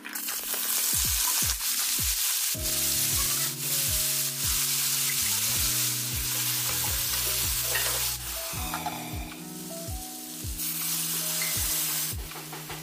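Jackfruit seeds and taro stems sizzling loudly as they drop into hot oil in a steel wok and fry, with a fresh burst of sizzling near the end as water is poured in. Background music with a steady beat plays underneath.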